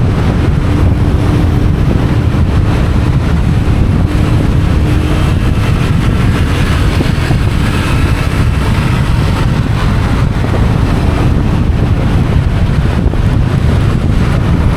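Wind buffeting the microphone and road noise on a moving motorcycle, with its engine running underneath, steady throughout.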